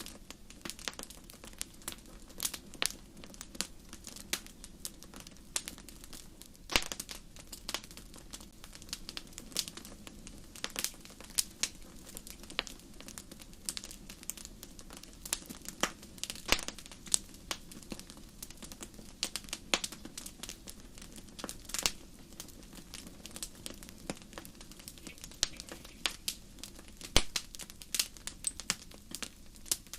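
Wood fire crackling: irregular sharp pops and snaps, several a second, over a steady low hiss of burning.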